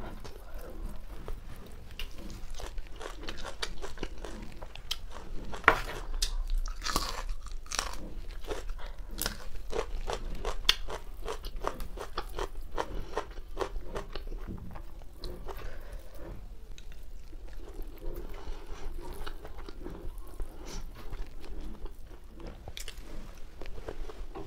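A person chewing and crunching food close to the microphone, with many small wet clicks and crackles, heaviest about a quarter of the way in.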